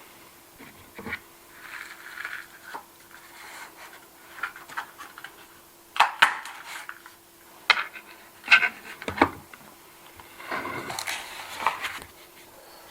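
Small hard objects being handled and set down close to the microphone: scattered sharp clicks, taps and light clinks, most of them between about six and nine and a half seconds in, then a spell of rustling near the end.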